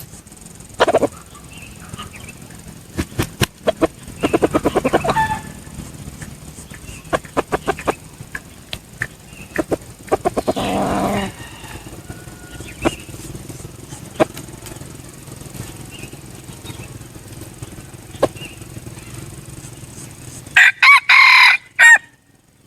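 Junglefowl decoy rooster giving short clucks and two rapid pulsing bursts, then crowing once loudly near the end.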